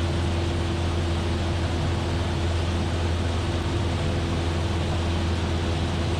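Cessna 172F's six-cylinder Continental O-300 engine and propeller droning steadily in flight. There is a constant low hum, a fainter steady tone above it, and an even rush of noise.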